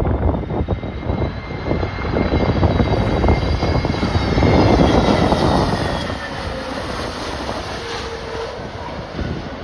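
Jet airliner passing close by, its engines giving a whine that slowly falls in pitch, over heavy wind buffeting the microphone.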